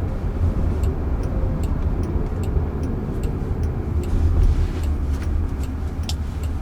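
Steady low road and tyre rumble inside a moving car's cabin, with scattered faint light ticks.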